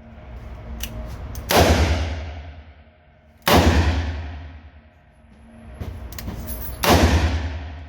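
Three gunshots from a snub-nose revolver firing near-maximum handloads of Winchester 296 powder, about two and then three and a half seconds apart, each a sharp blast with a long echoing decay inside an indoor range. Faint clicks come just before the second and third shots.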